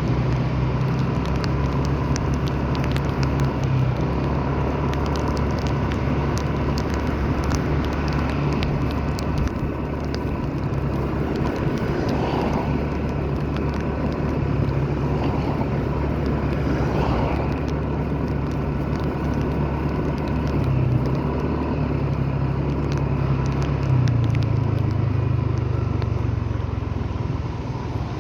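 Motor vehicle driving at a steady pace: a steady low engine hum with road noise.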